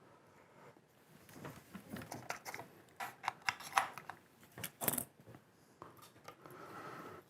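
Small clicks, taps and scratchy rustles of soldering two twisted wires held in helping hands: iron tip, solder and wire being handled. A cluster of sharp ticks comes in the middle.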